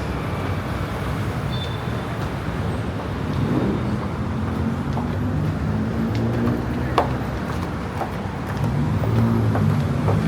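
Road traffic: a steady haze of passing vehicles with engines running at a low pitch, and a single sharp click about seven seconds in.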